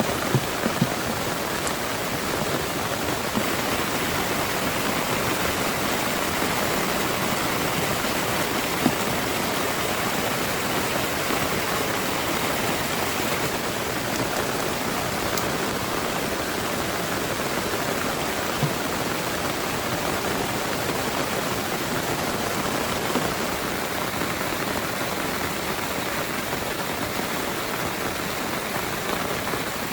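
Heavy rain pouring steadily, with a few louder single drop hits now and then.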